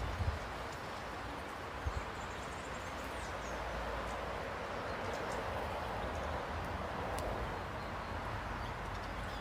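Steady outdoor background noise with faint, high bird chirps a few seconds in and a couple of dull thumps near the start.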